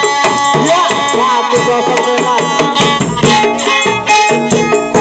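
Traditional percussion-led music: drums and rattles striking a busy, quick rhythm under several pitched melodic instruments.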